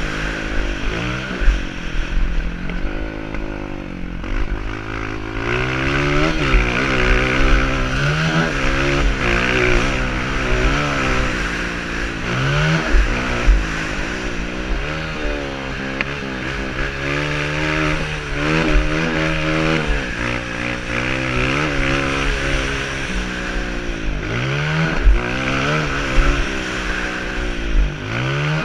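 Honda CRF230 dirt bike's single-cylinder four-stroke engine revving up and dropping back over and over as the throttle is opened and closed through the corners and straights of a motocross track, heard close up from an onboard camera, with low thumps and buffeting throughout.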